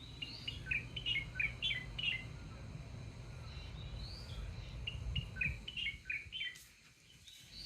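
A songbird singing two phrases of quick, downward-sweeping chirps, each opened by a short rising note, the first near the start and the second about five seconds in. A low rumble runs beneath the first part and fades out near the end.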